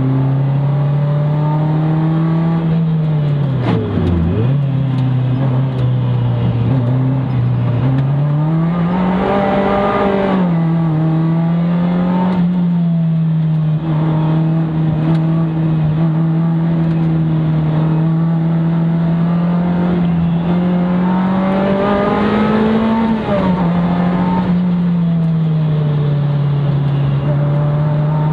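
Sports car's engine heard from inside the cabin while lapping a circuit, running loudly with its pitch rising under acceleration and falling when lifting off. There is a sharp drop and recovery in pitch about four seconds in, and climbs around ten seconds and again near twenty-two seconds.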